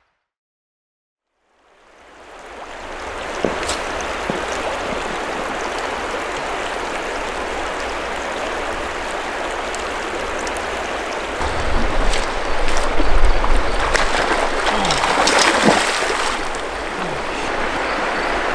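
River water running in a steady rush, fading in after a brief silence at the cut, with a louder, rumbling stretch and a few knocks in the second half.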